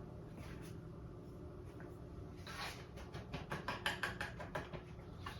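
Paintbrush dabbing quick short strokes onto a stretched canvas while painting pine needles: a run of light scratchy taps, about five a second, through the middle of the stretch.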